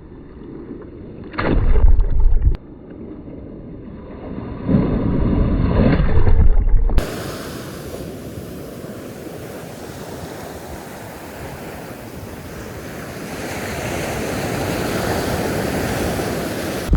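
Wind buffeting the microphone in gusts. About seven seconds in the sound changes abruptly to steady ocean surf, which swells louder near the end.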